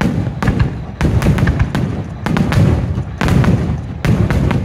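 Aerial firework shells bursting in quick succession, about two a second: sharp cracks, each followed by a low rolling boom.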